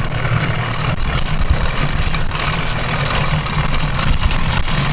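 Stock 66cc two-stroke engine of a motorized mountain bike running steadily while the bike is ridden along a trail.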